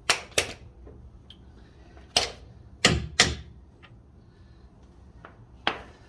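Hand tools knocking and clacking against metal: about six sharp, separate knocks at uneven intervals, two close together at the start, two around the middle and one near the end.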